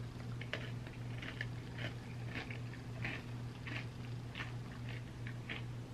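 Close-miked wet chewing and mouth smacks of someone eating a spoonful of ice cream sundae, a short click or smack every half second or so. A steady low hum sits underneath.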